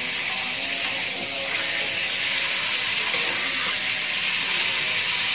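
Salted squid pieces frying in hot oil in a wok, a steady sizzling hiss, as they are turned and scooped out half-cooked.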